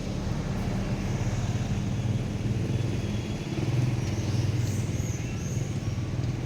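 An engine running steadily, a low even rumble, with a few faint high chirps about two-thirds of the way through.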